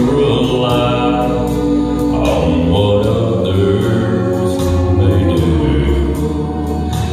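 Gospel song: a group of singers with accompaniment, voices holding chords over a steady bass line.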